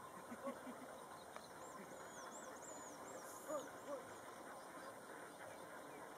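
Faint bird calls: a few short honks about half a second in and again around three and a half to four seconds, with thin high chirping from small birds in between, over a low steady hiss.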